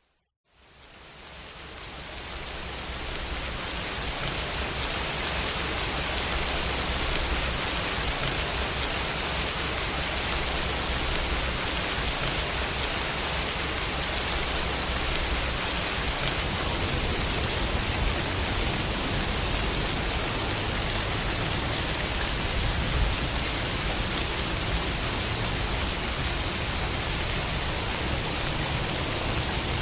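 Steady rain falling, fading in over the first few seconds after a moment of silence, then a dense even hiss with a low rumble underneath.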